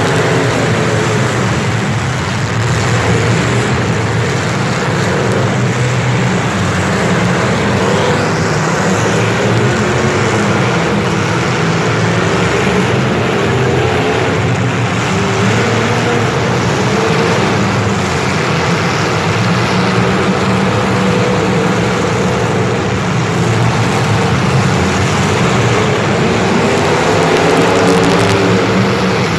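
A vehicle engine running steadily under way, a continuous low drone with little change in pitch.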